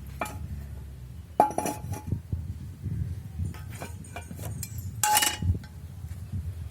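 Pieces of scrap metal clinking and knocking together several times, the strongest knocks about a second and a half in and around five seconds in, each with a brief ring.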